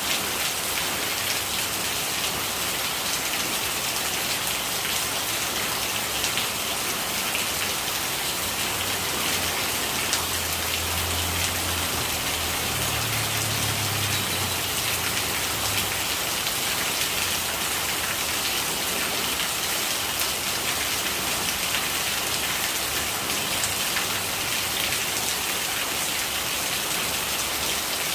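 Steady rain falling: a dense patter of drops with rainwater gurgling as it runs off. A faint low rumble swells and fades in the middle.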